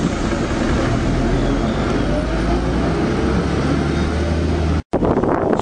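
Motor vehicle engine running close by with traffic noise, a faint rise in pitch as it revs. It cuts off abruptly near the end.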